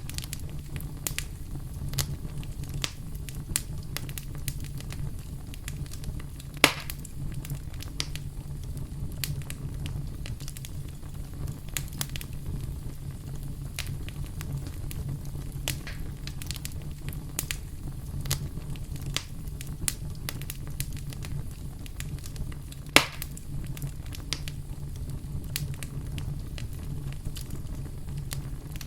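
Wood campfire burning with a steady low rumble and frequent sharp crackles, and two louder pops about a quarter of the way in and again later.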